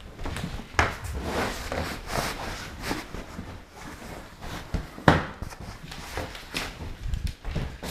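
Scattered knocks, thumps and rustling of objects being handled, with the sharpest knock about five seconds in.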